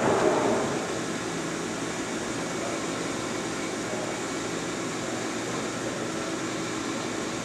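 Monarch 18 x 54 heavy-duty toolroom lathe running under power, a steady mechanical hum of its spindle and gearing. It is a little louder in the first second, then settles to an even level.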